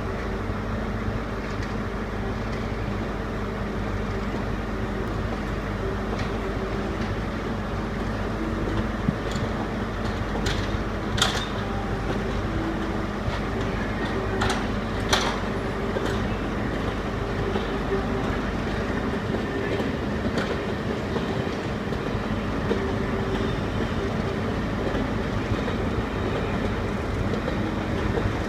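Class 37 diesel locomotive's English Electric V12 engine running steadily, with a few sharp knocks about eleven and fifteen seconds in.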